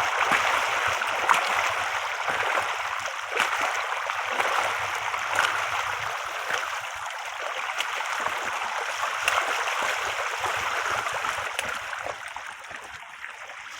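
Steady rushing of flowing stream water, with a few faint clicks over it.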